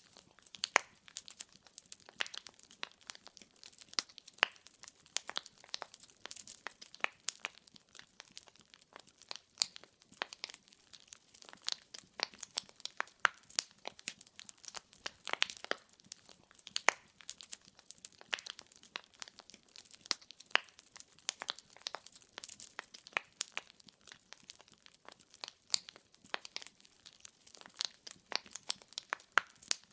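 Wood fire in a fireplace, with logs crackling and popping: a dense, irregular run of sharp snaps over a faint hiss.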